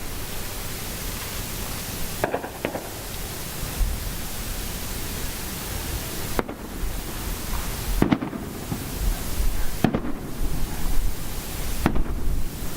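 Fireworks going off: about five separate bangs at uneven gaps of two to four seconds, over a steady background hiss.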